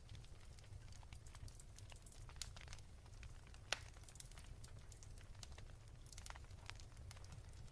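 Wood fire crackling softly, with irregular small pops and one sharper pop about halfway through, over a low steady hum.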